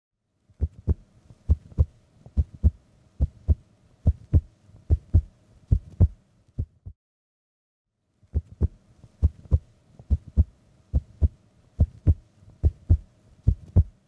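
A cloth snapped and flapped between the hands as a foley effect, giving a run of soft low thumps, mostly in quick pairs like a heartbeat. The thumps stop for about a second midway, then start again in the same pattern.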